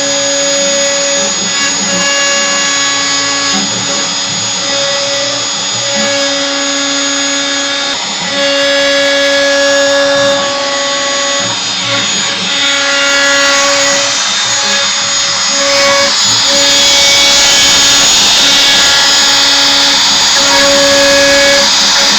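X-Carve hobby CNC router v-carving acrylic: the spindle runs steadily while the stepper motors whine in shifting pitched tones that stop and start every second or two as the axes change direction and speed. From about two-thirds of the way through, the cutting noise grows brighter and louder.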